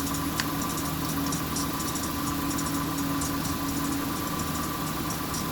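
A steady background machine hum with a few constant tones, unchanging throughout.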